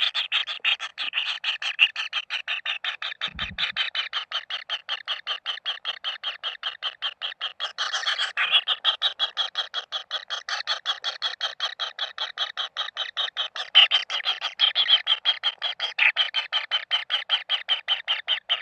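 Kingfisher chicks begging: a steady string of rapid, high chirps, about six or seven a second, with one brief low thump about three and a half seconds in.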